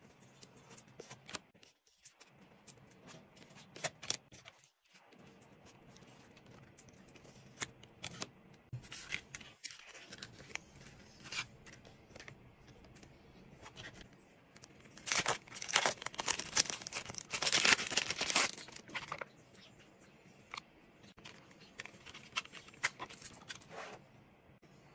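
Scattered small taps and paper rustles from hands working on a journal page. About fifteen seconds in comes a louder stretch of tearing lasting about four seconds, as paper or tape is torn.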